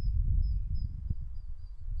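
Sea wind buffeting the microphone with a low, gusting rumble. Over it a small bird repeats a short high note about four times a second.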